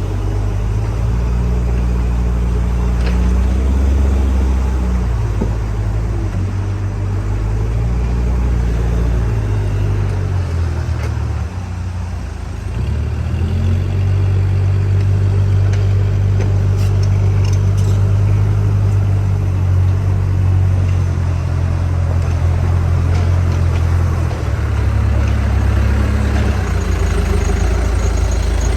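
Heavy diesel engine running, its speed stepping up and down several times and dropping off briefly about halfway through before picking up again.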